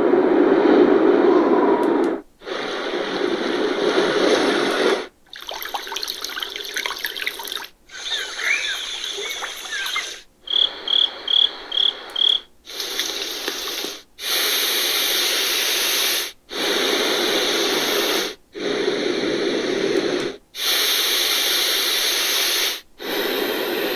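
Portable white-noise sound machine stepping through its built-in sounds, each playing for about two seconds before cutting off and switching to the next: a run of different hissing and water-like noises, one of them with five short high chirps.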